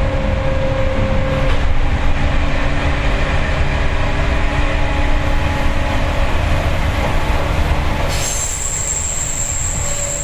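Seibu 4000 series resistor-controlled electric train running between stations, heard from inside the car: steady wheel and motor rumble with a few held tones. About eight seconds in, a thin high-pitched wheel squeal starts as the wheels grind through a curve.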